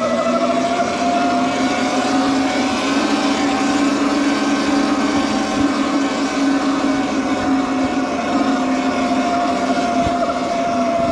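Electric bike motor whining steadily at speed, its pitch climbing a little in the first second and easing slightly near the end, over wind and tyre noise.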